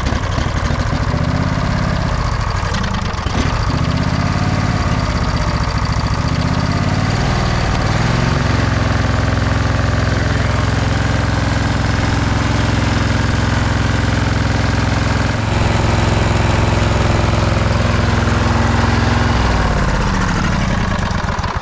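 Sabre by John Deere lawn tractor engine running after a fresh start. It runs unevenly and hunts for the first several seconds, settles to a steady run, then winds down to a stop near the end. Fuel is flooding out of its carburetor past a stuck float.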